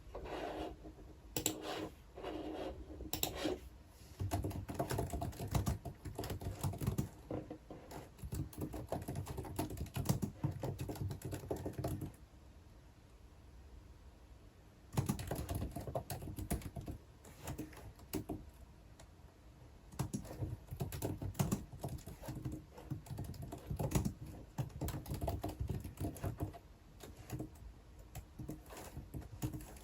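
Typing on a computer keyboard in quick runs of key clicks, stopping for about three seconds around the middle before starting again.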